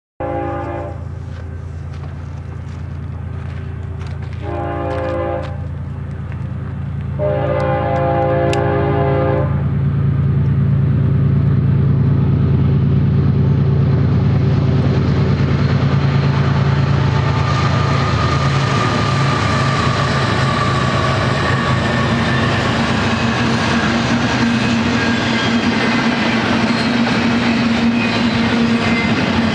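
Diesel freight locomotive horn sounding three blasts, the last the longest, over the low rumble of approaching GE diesel locomotives. After them, double-stack container cars roll past with steady wheel-on-rail noise and clickety-clack.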